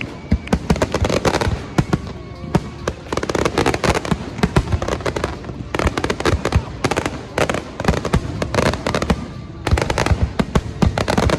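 Fireworks display: a dense, continuous run of sharp bangs and crackles, many overlapping.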